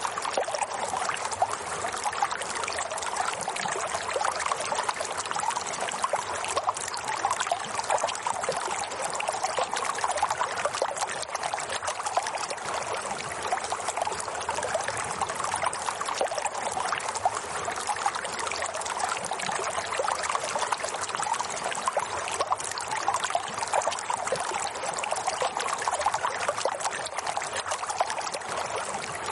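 Running water trickling steadily, without a break.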